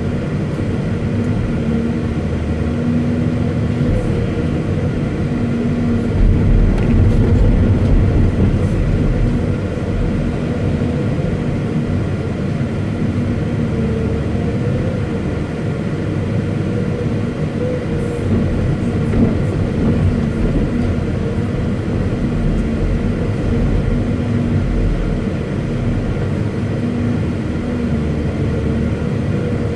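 Caterpillar 329E excavator's diesel engine running steadily with a constant low hum, growing louder for a few seconds about six seconds in.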